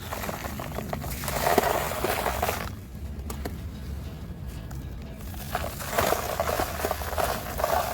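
Dry, crumbly material being crushed and crumbled, in dense crunchy crackling: a burst of crunching, a quieter stretch of scattered crackles about three seconds in, then more crunching near the end.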